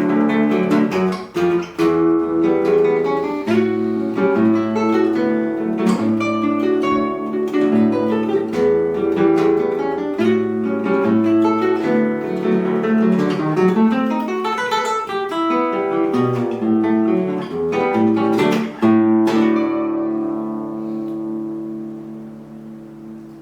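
Acoustic guitar playing a plucked melody over a bass line, then closing on a final chord that is left to ring and fades out over the last few seconds.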